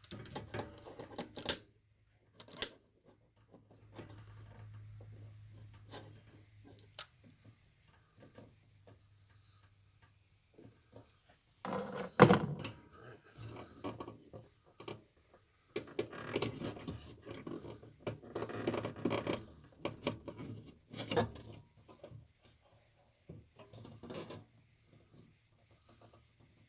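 Handling noises: scattered clicks and knocks with stretches of rustling as objects are moved about, the loudest knock about twelve seconds in. A faint low hum runs for several seconds near the start.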